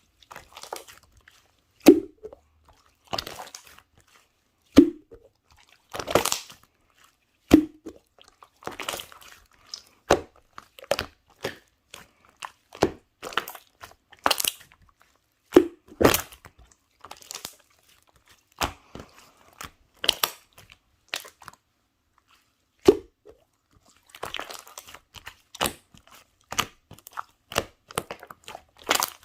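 Crisp crunching and crackling in irregular bursts, like someone biting and chewing crunchy food, with a soft low thump on some of the louder crunches.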